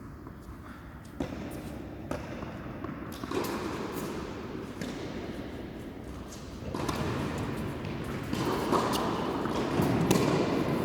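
Tennis balls being struck and bouncing: a run of sharp knocks roughly a second apart, over background noise that grows louder in the second half.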